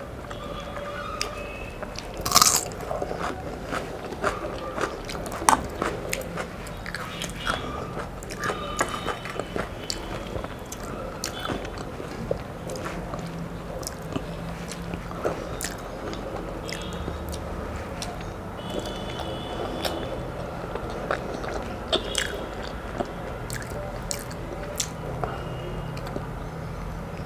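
Close-miked chewing and mouth sounds of a woman eating rice, dal and vegetables by hand, with many short sharp clicks. Wet squishes come from her fingers mixing the rice on the plate between mouthfuls.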